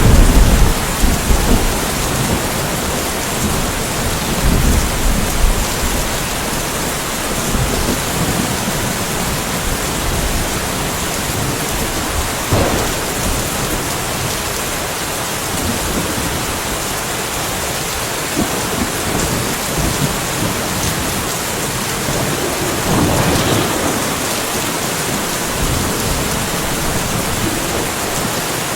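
Steady, even rainfall during a thunderstorm, with thunder rumbling low and loud over the first few seconds before fading into the rain. Two shorter, softer thunder surges come about 12 and 23 seconds in.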